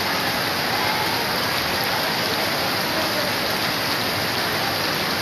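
Steady rush of heavy monsoon rain and flowing floodwater.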